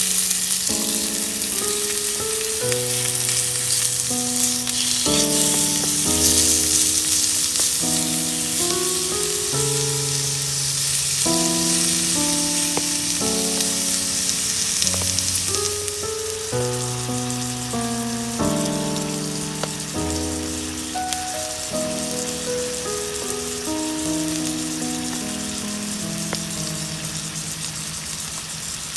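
Food frying and sizzling, loudest for about the first sixteen seconds and then easing off, under background music: a slow melody of held notes.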